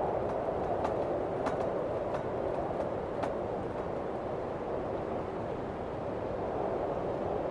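Steady blizzard wind blowing against a log cabin, with several faint sharp ticks in the first half.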